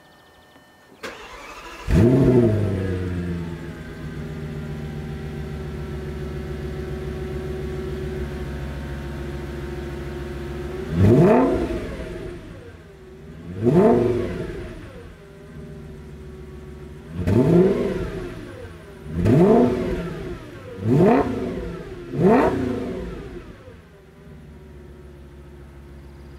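Audi S8 (4E) 5.2-litre V10 starting, flaring up then settling to a steady idle. It is then blipped six times in short revs before dropping back to idle. The exhaust valves are held open, and the engine is not fully warmed up.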